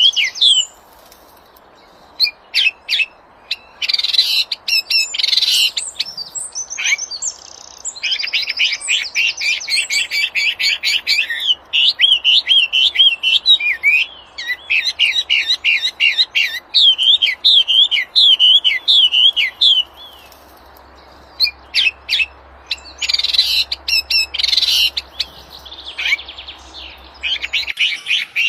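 A small songbird, the bird known in Indonesia as the wambi, singing energetically in long runs of fast, repeated high chirping and trilling notes, with a couple of short pauses.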